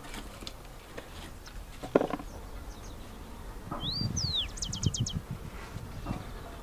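A small songbird calls: a short rising whistle, then a falling one, then a quick trill of about six high notes, about four seconds in, over low rustling and handling noise. A single sharp knock about two seconds in is the loudest sound.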